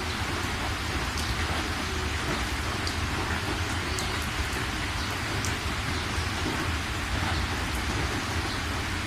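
Steady rain falling, with scattered sharp drop ticks and a steady low rumble underneath.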